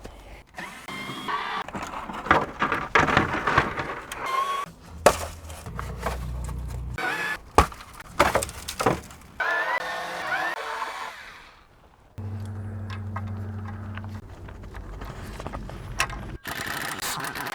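Mechanic's hand work under a car: tools and metal parts knocking, clattering and scraping, with a few short squeaks. About twelve seconds in, a steady low hum runs for about four seconds, followed by more clatter.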